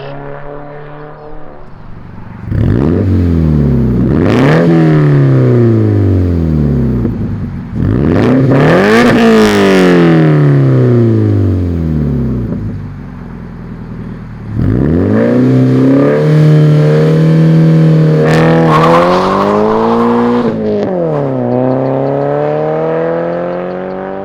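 Subaru FA20 flat-four running through a Tomei Expreme Ti titanium cat-back exhaust, revved hard several times. Each time the pitch climbs quickly and falls back slowly. About two-thirds of the way through, the engine is held at a steady pitch for a couple of seconds before another rise.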